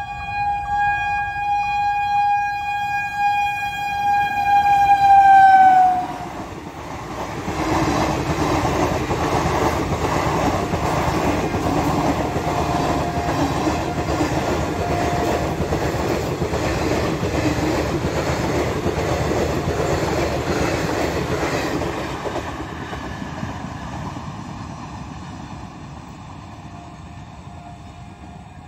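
Indian Railways WAP-7 electric locomotive sounding one long horn blast that grows louder and drops in pitch as it passes, then stops. Its passenger coaches then rumble and clack over the rail joints for about fifteen seconds, and the noise fades as the train goes away.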